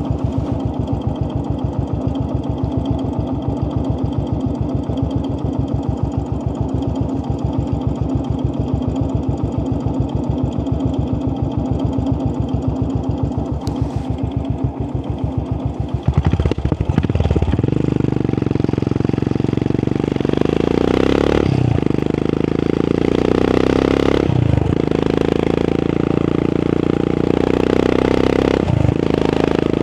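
535cc single-cylinder motorcycle engine with an aftermarket AEW exhaust, thumping steadily at low revs, then revving up about sixteen seconds in and accelerating hard. Its pitch climbs and drops briefly three times as it shifts up through the gears.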